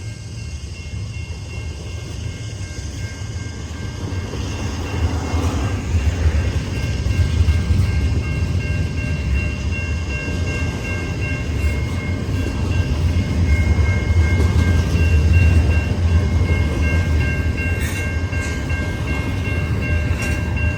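CN intermodal freight train rolling past: a steady low rumble of the cars on the rails, growing louder about five seconds in, with faint steady high tones over it.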